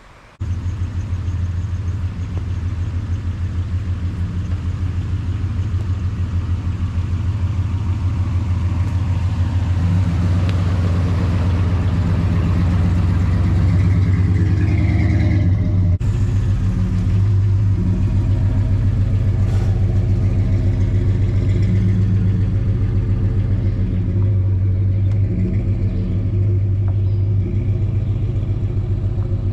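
2003 Chevrolet Suburban's engine running steadily as it drives, a continuous low drone.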